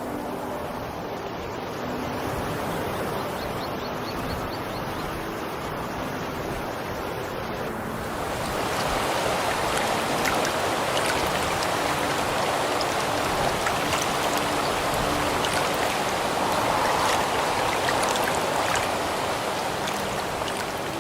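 Rushing water, like a stream, a steady hiss and splash that gets louder and brighter about eight seconds in.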